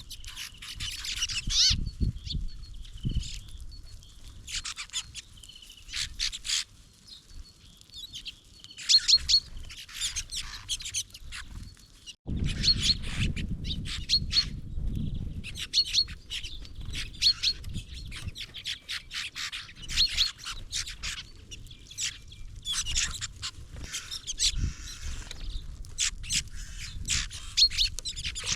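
Small songbirds calling at a feeder: many short, high chirps and call notes in quick series, with pauses between. About halfway through, a low rumble sets in beneath the calls.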